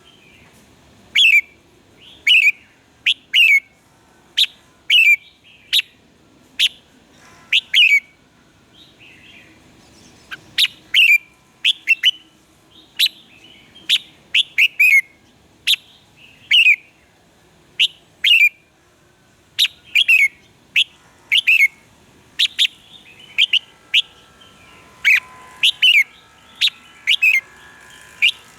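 Red-whiskered bulbul singing: a run of short, sharp notes, each dropping quickly in pitch, about one to two a second, with a short lull near the middle.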